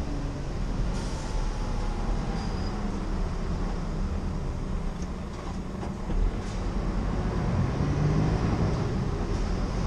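A 2016 Scania R490 truck on the move: its 13-litre six-cylinder diesel runs with a steady low rumble under road noise, with a few faint ticks over the top.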